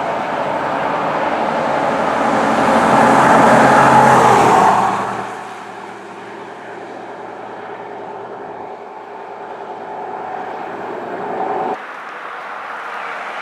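A fire truck drives past with its engine and road noise loud, then drops away sharply about five seconds in. A quieter vehicle sound follows and changes abruptly near the end.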